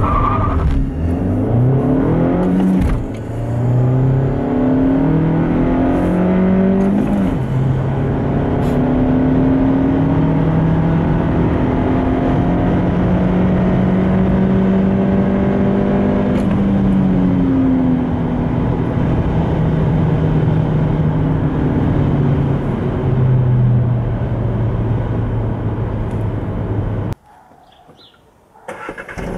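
2017 Seat Leon FR's 1.4 TSI turbocharged four-cylinder petrol engine accelerating hard through the gears of its manual gearbox: the engine note rises, breaks at each upshift (about 3 and 7.5 seconds in), then holds steady and falls away as the car slows. The sound cuts off suddenly near the end.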